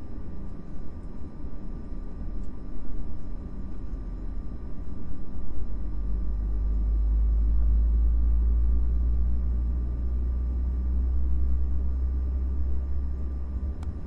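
Steady low rumble that grows louder about six seconds in, with faint steady high-pitched tones above it, like a vehicle or aircraft engine heard at a distance.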